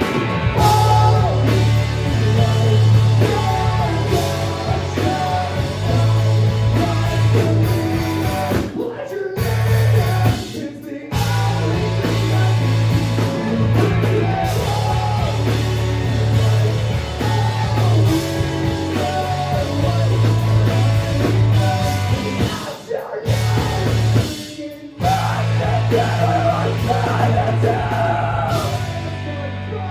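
Live rock band playing loud, heavy rock with guitars, bass and drums, the band cutting out in short stops twice, about a third and about two-thirds of the way through, before crashing back in.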